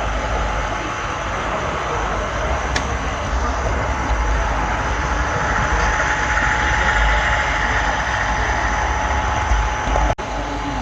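Model train rolling along the layout's track, heard from a camera car on the train: a steady rumble with a constant whine. The sound cuts out for an instant near the end.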